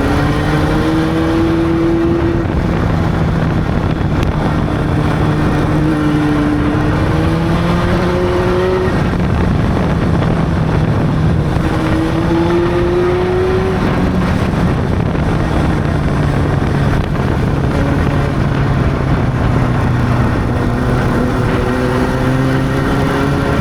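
Honda CB600 inline-four motorcycle engine running under way at a relaxed pace. Its pitch climbs gently and drops back several times, with steady road and wind noise underneath.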